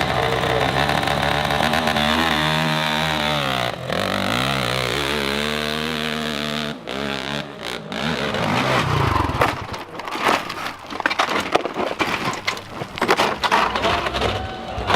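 Dirt bike engine revving, its pitch rising and falling several times, then running in choppy, uneven blips through the second half.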